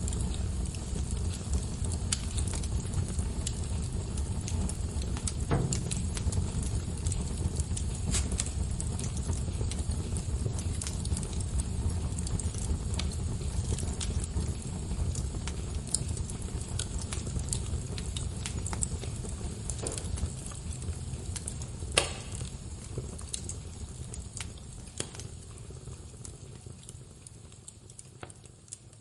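Wood fire burning: a steady low rumble with scattered crackles and pops, one sharper pop late on. The sound fades down near the end.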